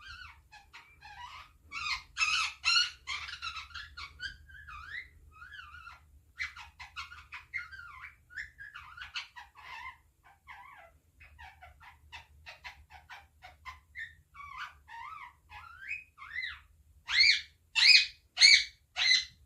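Indian ringneck parrot chattering on and on in quick, varied chirps and warbles, breaking into a run of loud squawks about two a second near the end. The owner takes it for an over-tired bird wanting a nap.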